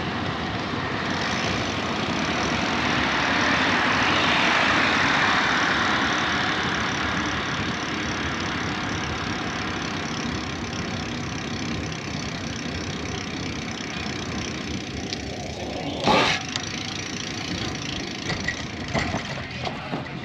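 Steady rushing wind and tyre noise of a bicycle ride, swelling for a few seconds near the start, with one sharp knock about sixteen seconds in.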